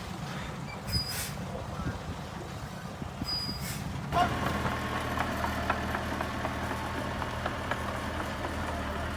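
Diesel engines of heavy earthmoving machinery running, with two short hisses in the first few seconds. About four seconds in, a louder, steady engine note starts, with rattling and clanking over it.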